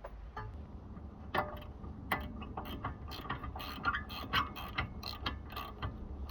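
Irregular metallic clicks and clinks, a few a second, some ringing briefly: hand tools and steel suspension parts being worked on during a front-end rebuild.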